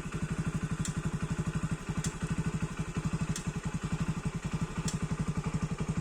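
Vehicle engine running at a steady speed, a fast even low pulsing with faint ticks about once a second.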